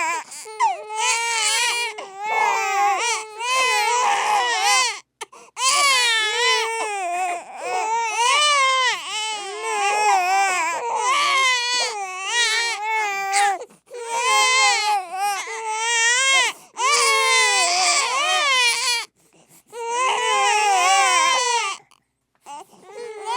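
Baby crying hard: long, high, wavering wails broken by brief gasps for breath.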